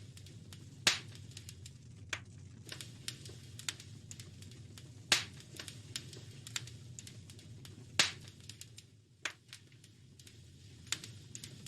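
Wood fire crackling in a fireplace: irregular small snaps and pops over a steady low rumble, with three louder pops about one, five and eight seconds in.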